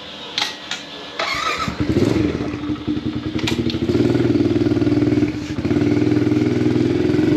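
Motorbike engine starting about a second in, then running and being ridden off, building to a steady loud note with a brief dip about five seconds in.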